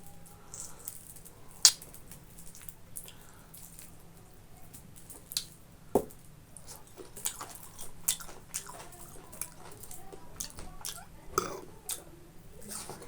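Close-miked eating of boiled pork and rice with gravy: wet, squishy mouth and chewing sounds with scattered sharp clicks. One click stands out loudly about a second and a half in, and another comes near six seconds.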